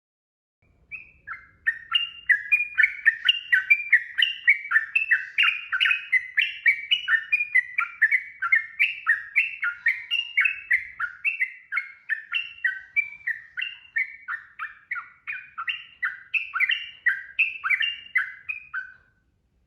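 Sooty-headed bulbul (trucukan) singing a long unbroken run of quick notes, each sliding up or down in pitch, about three a second. It starts about a second in and stops just before the end.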